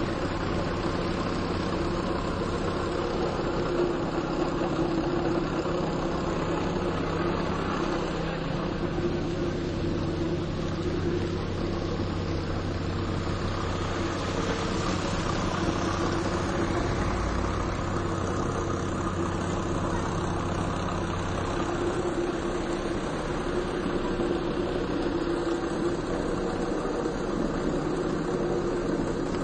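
A vehicle engine idling steadily, with a steady low hum under an even hiss. The lowest part of the hum shifts a little after about twenty seconds.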